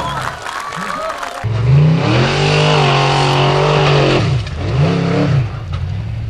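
Formula offroad car's engine revving hard on a steep gravel climb, its note held high and steady, then dropping and picking up again twice near the end. A lower, falling engine note comes before it for the first second or so.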